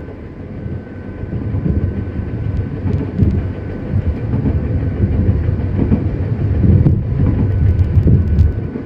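Running sound of a Nankai 7100 series resistor-controlled electric train, heard from inside the car: a heavy rumble of wheels on rail and traction motors, with faint steady tones above it. It grows louder over the first few seconds and drops off near the end.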